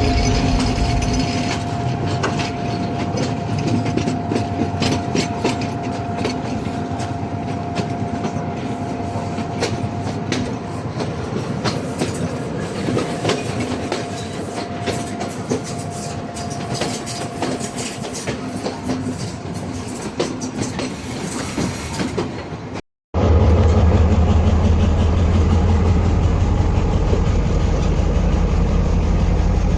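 Train running on the track, its wheels clicking over the rails with a steady hum for the first part. After a cut about 23 s in, a heavier, deep engine drone takes over.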